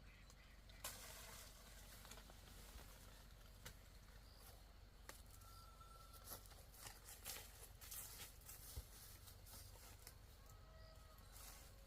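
Near silence: faint outdoor ambience with scattered small clicks and rustles, and a couple of faint short whistled tones about halfway through and near the end.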